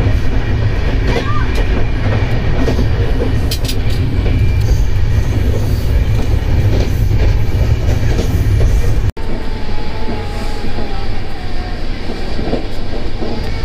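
Heavy rumble and rattle of a train running, heard from inside a passenger coach while a container freight train passes close alongside on the next track. About nine seconds in, the sound cuts off for an instant, then the coach's steady running noise carries on, lighter in the bass.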